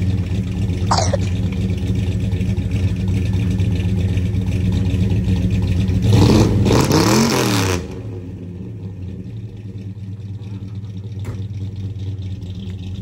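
Ford 390 big-block V8 idling, then revved once about six seconds in, its pitch climbing and falling back within about two seconds before it settles to a quieter idle.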